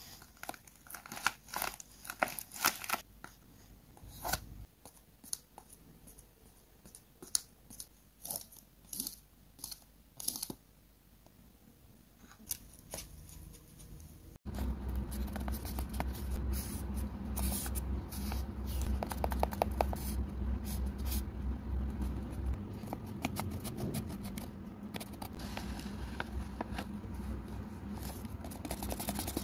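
Paper crafts handled by hand: crisp rustles and crinkles of paper. For about the first half they come as scattered sharp crackles. After a sudden cut, the rustling is denser and runs over a steady low hum.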